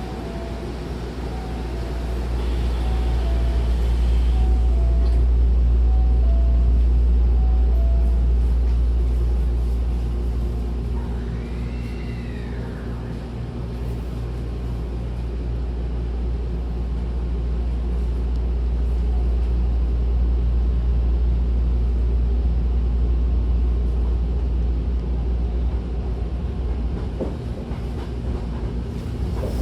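Hankyu 1000-series electric train running, heard from inside the car: a steady low rumble of motors and wheels that swells as it gathers speed, eases, then builds again. A repeating two-note tone sounds through the first eight seconds, and a brief high squeal comes about twelve seconds in.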